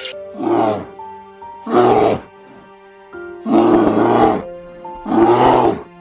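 A large wild animal roaring four times, each roar under a second long, over background music with sustained notes.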